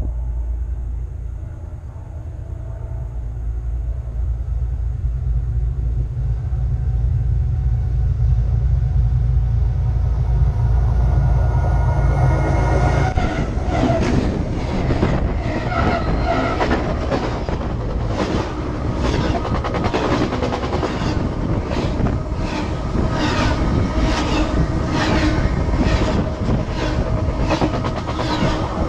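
A train approaches with a deep rumble that builds, then rolls directly overhead from about twelve seconds in. Its wheels clack over the rails in an even rhythm of about two beats a second, amid the rattle of the cars.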